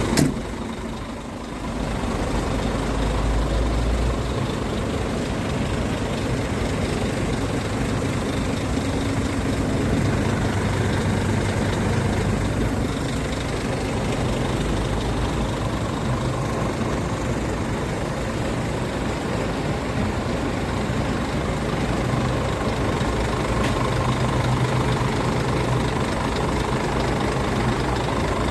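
Scania R440 truck's diesel engine running steadily at idle, with a heavy low drone. A sharp thump comes right at the start, followed by a brief dip before the engine sound settles.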